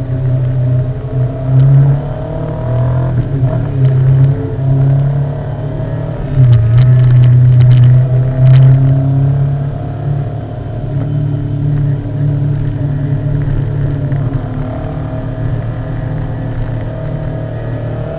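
Motorcycle engine running on the move, its pitch rising and falling with the throttle. The engine is loudest near the middle, with a few sharp clicks.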